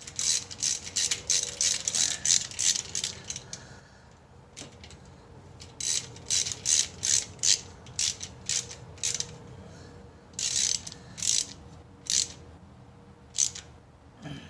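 Hand ratchet wrench clicking in quick strokes, in three runs separated by short pauses, as bolts are worked loose.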